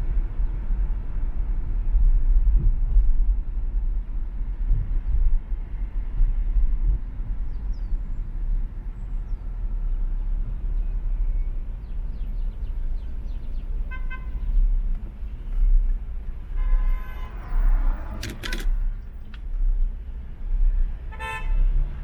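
Steady road and engine rumble of a car driving in traffic, with car horns tooting in the second half: a short beep, then a longer honk with a few sharp clicks, then another short beep near the end.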